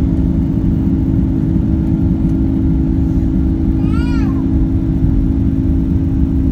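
Steady drone of an Airbus A330-200 airliner's jet engines and cabin airflow, heard from inside the passenger cabin: a constant low hum over a rumble. About four seconds in, a brief high voice-like squeal rises and falls.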